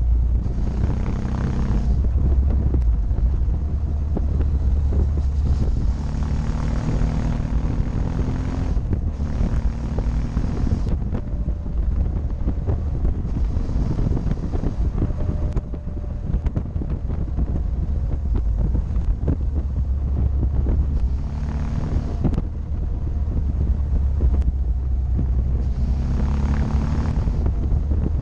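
Motorcycle engine running under way, its note coming up in several stretches, over heavy wind rumble on the action camera's microphone.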